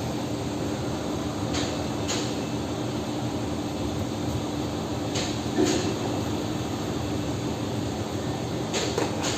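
Steady machinery hum with a low steady tone, broken three times by a pair of short hissing bursts.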